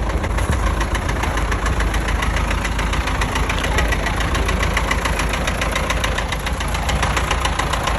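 An engine running steadily with an even, rapid knock of about seven beats a second.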